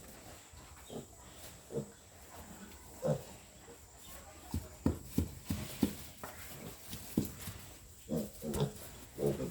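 Young piglets grunting: short, separate grunts, several in quick succession about halfway through and another cluster near the end.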